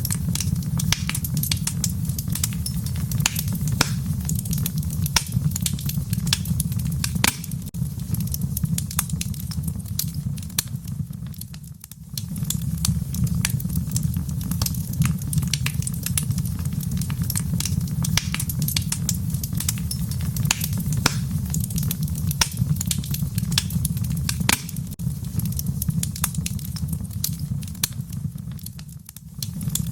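Wood fire crackling in a fireplace: a steady low rumble of flames with many sharp pops and crackles. The sound dips briefly twice, about twelve seconds in and again near the end.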